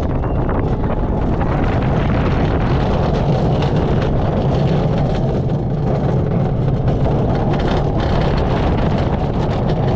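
A roller coaster train running along its track, with a steady rumble and the wind of the ride on the microphone. A few brief clatters come near the end.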